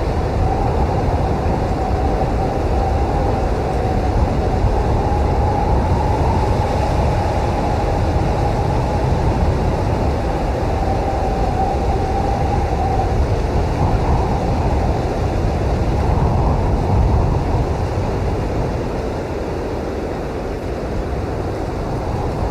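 Blizzard wind blowing steadily, a dense low rush with a faint wavering whistle above it.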